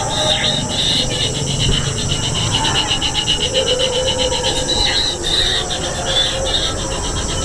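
Kingfisher nestlings begging for food: rapid trains of high, pulsed chirping, with a few longer high calls in between.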